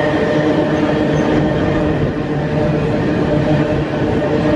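Empty ore train passing, its wagons rolling steadily along the rails with a continuous droning tone running through the noise.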